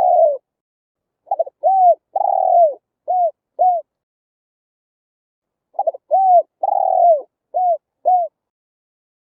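Spotted dove cooing: two phrases of about five coos each, the third coo the longest, a pause of about two seconds between phrases, after the tail of a phrase at the very start.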